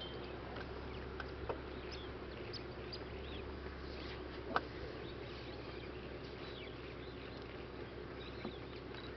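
Outdoor natural ambience: scattered short bird chirps and insect calls over a steady low hum, with one sharp click about halfway through.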